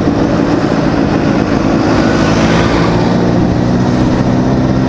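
Motorcycle engine running steadily while riding, its pitch easing slightly down in the second half as the bike slows, over a rush of wind and road noise.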